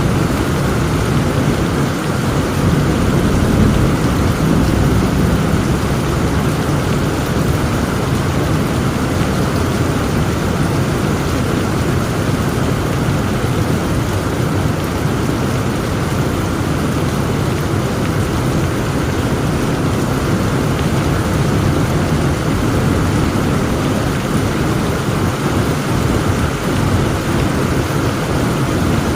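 Heavy rain pouring steadily, with a low rumble of thunder underneath that swells slightly about three to five seconds in.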